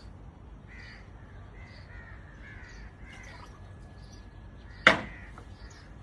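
Faint bird calls repeating in the background, with one sharp knock about five seconds in.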